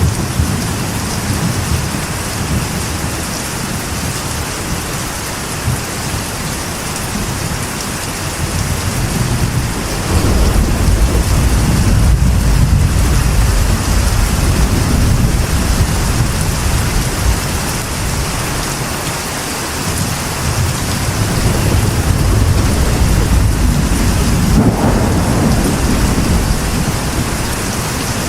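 Rain drumming steadily on a metal roof, with deep rolls of thunder swelling about ten seconds in and again near the end.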